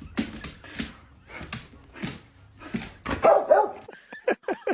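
Dog vocalizing: a run of short noisy bursts about every half second, then several short calls that bend in pitch about three seconds in, followed by quick short sounds.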